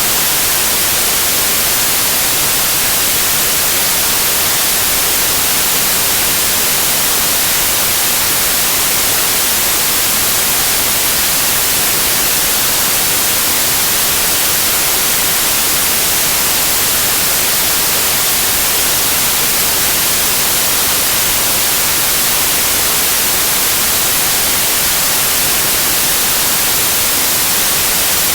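Steady TV-static white noise: an even, unchanging hiss, strongest in the treble.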